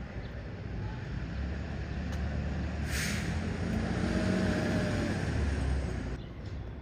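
A motor vehicle's engine running and swelling up then fading away, with a brief hiss about three seconds in.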